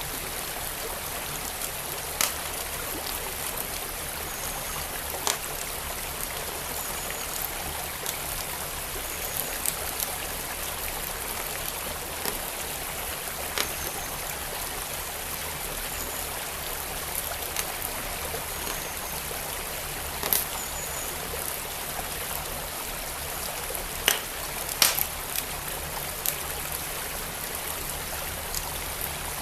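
A creek flowing steadily, with a wood fire crackling over it: sharp, irregular pops come every few seconds, and the loudest cluster about three quarters of the way through.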